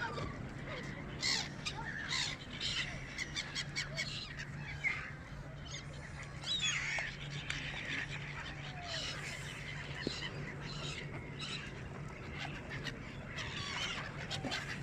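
A mix of birds calling, with many short overlapping calls and chirps throughout, over a steady low hum.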